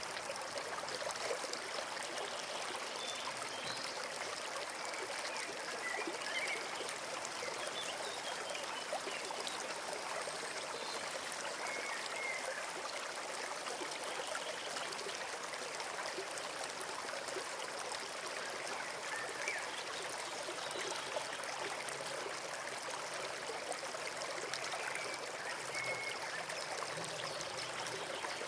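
Small forest stream running steadily, a continuous trickle and rush of water.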